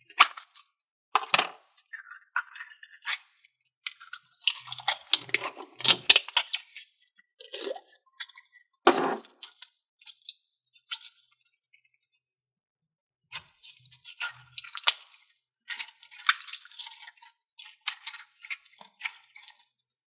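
Slime being handled and squished by hand in its plastic container, giving irregular clicks, crackles and squelches with a short lull about two thirds of the way through.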